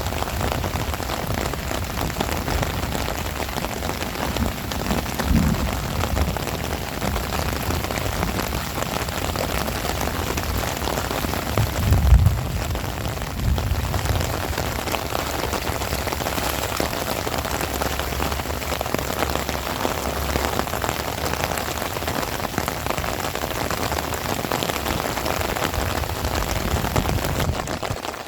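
Heavy rain falling steadily, a dense hiss of drops. There are two short low rumbles, about 5 seconds in and, louder, about 12 seconds in.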